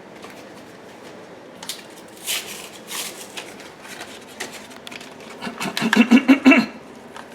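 Handling noise in a small room: scattered light rustles and clicks, then a short cluster of brief pitched sounds about six seconds in.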